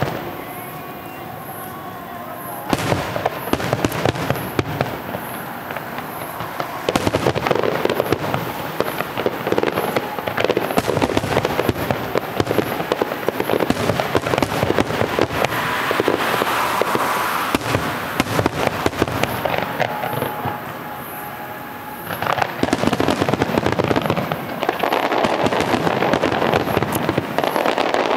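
Fireworks finale barrage: a dense, continuous run of shell bursts and crackling. It eases briefly at the start and again about two-thirds through, then builds back to full intensity.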